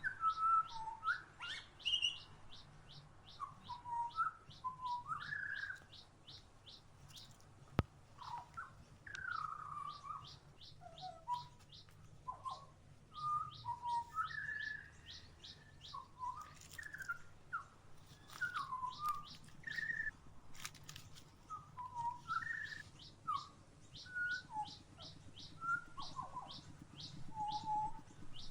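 Songbirds calling at a feeder: a rapid, high-pitched series of short notes repeats about five or six times a second, pausing now and then, while lower, varied whistled and warbled notes slide up and down. A single sharp click sounds about eight seconds in.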